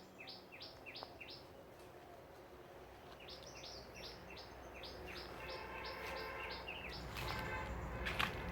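A woodland bird calls a rapid series of short, falling chirps: a run of about five at the start, then a longer run of about a dozen from about three seconds in. A second, layered call overlaps them in the second half, and a few sharp clicks come near the end.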